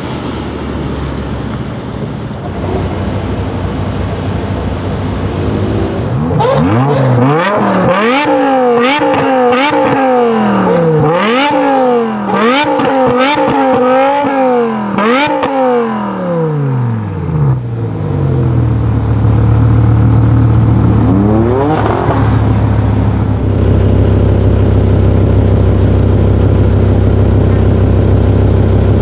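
BMW M5 E60's V10 engine through an Eisenmann race exhaust, free-revved in a quick series of about nine blips, each rising sharply and dropping straight back. It then settles to a steady, deep idle, with one more short blip about three-quarters of the way through.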